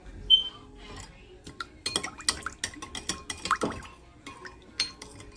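Metal baking pan and oven rack clinking and clattering as the pan is put back into the oven. A sharp ringing clink comes about a third of a second in, then a run of quick clicks and knocks between about two and four seconds in.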